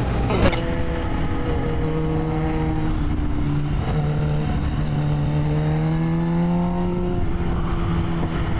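Motorcycle engine running under way, its pitch holding steady, then climbing slowly as it accelerates before dropping back near the end. A brief sharp click comes about half a second in.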